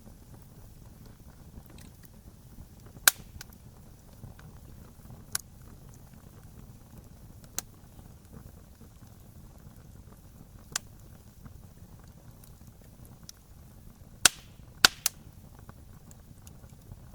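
Wood fire crackling: a steady low rush with scattered sharp pops, the loudest about three seconds in and a quick run of three pops near the end.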